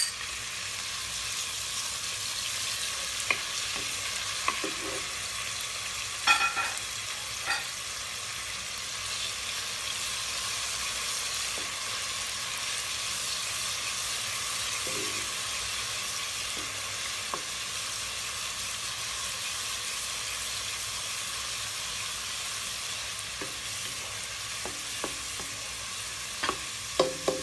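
Curry base sizzling steadily in a pan of hot oil with a little water just added, stirred with a spoon that knocks against the pan a few times in the first several seconds and again near the end.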